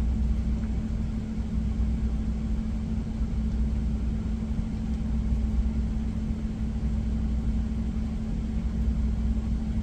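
Steady low rumble with a constant hum, typical of an idling truck engine heard from inside the cab.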